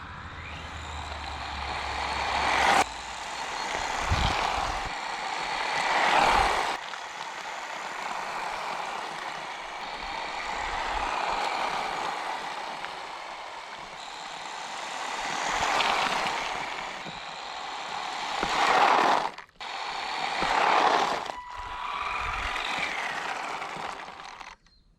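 Brushed electric motor and gears of a small HBX RC monster truck running off-road, the whine and tyre noise swelling and fading as it drives close and away again. The sound breaks off abruptly several times between short clips.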